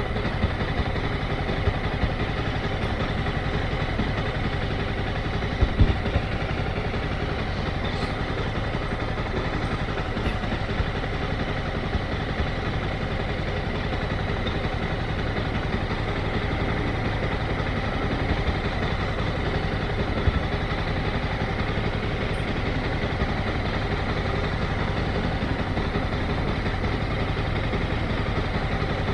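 Motorcycle engine running steadily at low revs, with a brief thump about six seconds in.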